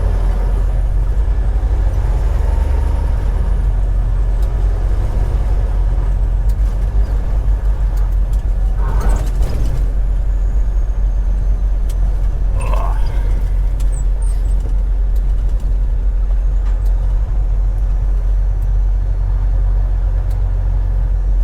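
Semi truck driving on the highway: a steady, loud engine drone and road noise, with two brief higher sounds about nine and thirteen seconds in.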